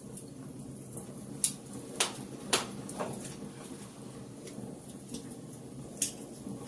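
Wood fire crackling in a fireplace: sharp, scattered pops, a cluster between about one and a half and three seconds in and another near the end, over a steady low rumble of the flames.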